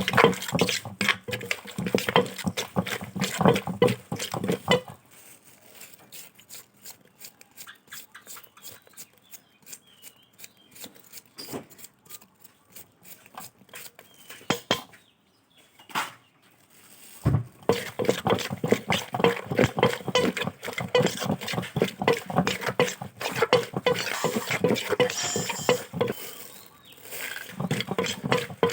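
Pestle pounding som tam in a mortar: rapid repeated knocks of wood against the bowl and the ingredients. After about five seconds the pounding gives way to a quieter stretch of scattered light knocks and clinks, then heavy pounding starts again for the last ten seconds or so.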